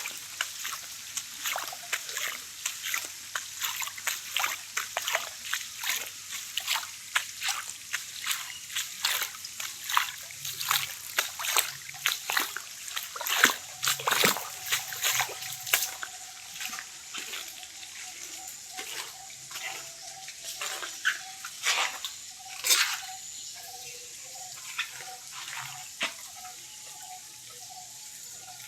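Water splashing and trickling in quick, irregular splashes. They come thick and fast at first, then thin out past the middle.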